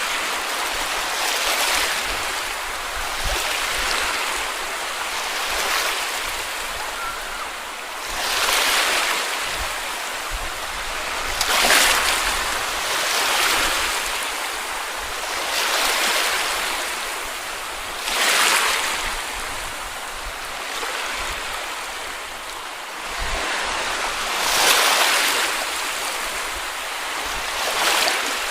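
Small sea waves breaking and washing up a beach, a fresh wave swelling in about every two to three seconds.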